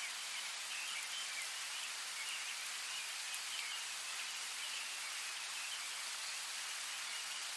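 Steady rain falling, an even hiss, with faint chirping running through it.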